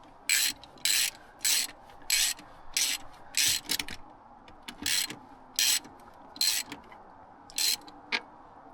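Hand socket ratchet clicking on its return strokes while a bolt is tightened: about a dozen short rasping bursts, roughly one every half second or so, with a brief pause near the middle.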